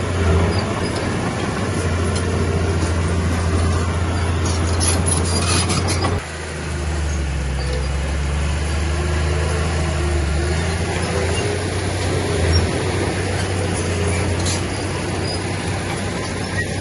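Heavy diesel engine of earthmoving machinery running steadily under load, with metallic clanks and rattles from the machine around five seconds in. About six seconds in, the engine note dips and settles lower, and there is a single knock near the end.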